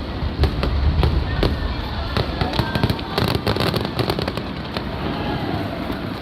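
Fireworks display bursting overhead: rapid crackling pops from many stars together with low booming rumble, the crackle thickest about halfway through.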